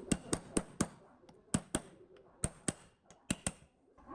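A series of about eleven sharp taps, unevenly spaced and some in quick pairs, stopping about half a second before the end.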